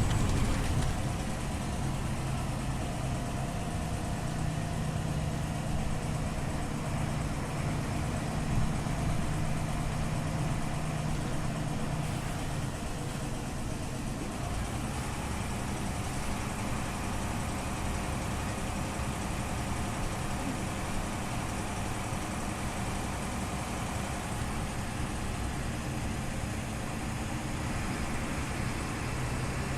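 Scania OmniLink CL94UB city bus engine running steadily, with a low drone that eases off about halfway through.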